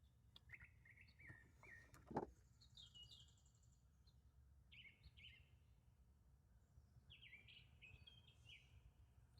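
Faint birdsong: several runs of short, quick chirps. There are a few light clicks, and one sharper knock about two seconds in.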